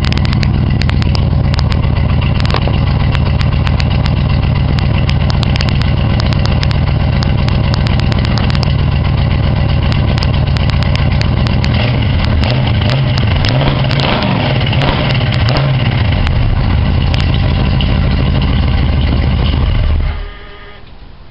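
1972 Oldsmobile Vista Cruiser's 350 V8 running steadily through its dual exhaust. The note wavers for a few seconds past the middle, and near the end the sound stops abruptly, as the engine is shut off.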